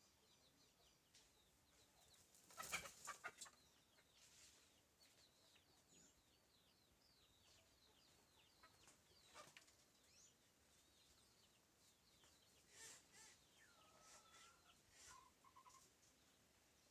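Faint chirping of small birds, many short quick calls one after another, with a brief louder burst about three seconds in.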